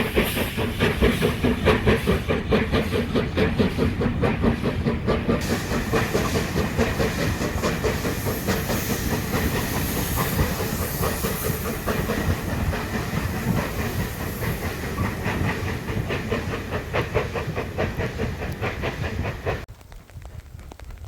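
Steam locomotive working hard, a fast regular exhaust beat over steady steam hiss. It cuts off suddenly near the end.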